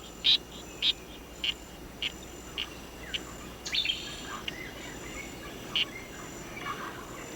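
Rainforest wildlife ambience: a run of short, sharp chirps repeating about every half second or so, thinning out after a few seconds, over a faint steady high insect drone.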